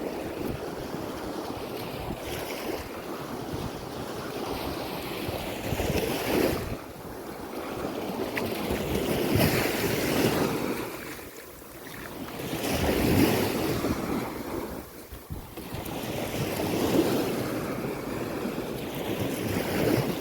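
Sea waves washing onto a sandy beach, the surf swelling and falling away every three to four seconds, with wind buffeting the microphone.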